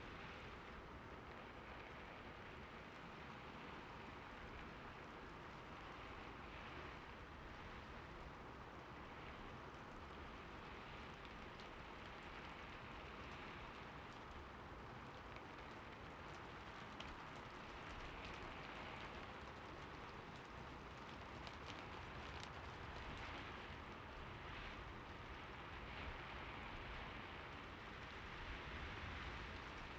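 Steady rainfall, a soft even hiss with scattered drops pattering on surfaces.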